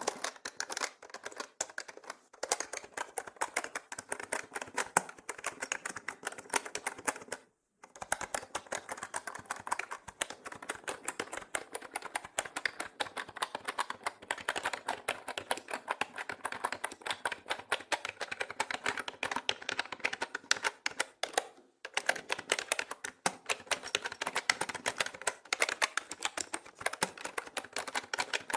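Mechanical keyboard being typed on quickly and continuously, a dense run of key clicks and clacks that breaks off briefly twice, about a quarter of the way in and again about three-quarters through.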